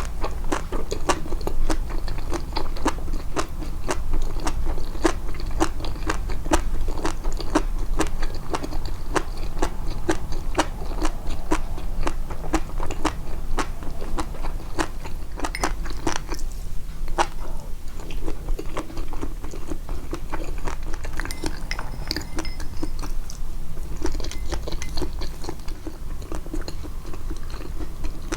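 Close-miked chewing: a person biting and chewing food with a rapid run of crisp clicks and crunches, the mouth sounds boosted. There is a brief lull about halfway through, then the chewing goes on.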